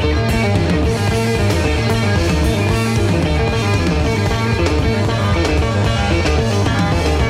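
Live rock-fusion band playing, with a prominent bass line, guitar and drums, heard off an old cassette recording of an FM broadcast.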